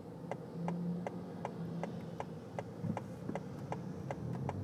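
Car turn-signal indicator clicking steadily, about three clicks a second, over a low steady hum.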